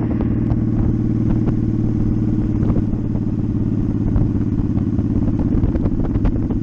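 Motorcycle engine running at a steady cruising speed on a gravel road, with scattered clicks of loose stones hitting the bike.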